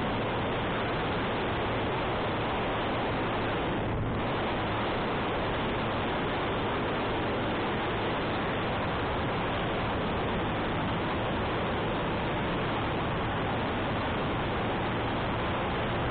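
Steady wind noise rushing over the microphone of a moving motorcycle, with the motorcycle's engine humming low underneath.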